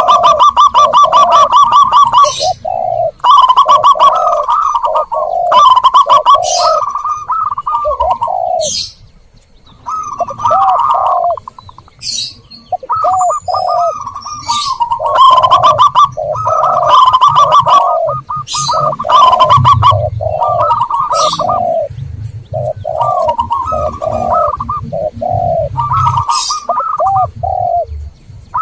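Zebra doves and spotted doves cooing: rapid strings of soft coos and trilled phrases, repeated over and over with short pauses and one longer break about nine seconds in, as a dove lure recording.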